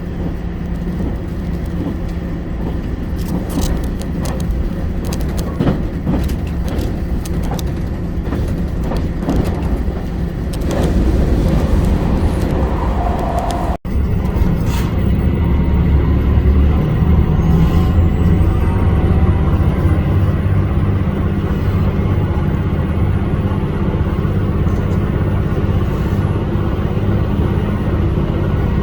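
HOT7000-series diesel railcar running on the line: a steady engine drone with rail clicks. About 14 s in the sound cuts briefly, then the engine comes in louder, with a faint high whine that rises and then holds.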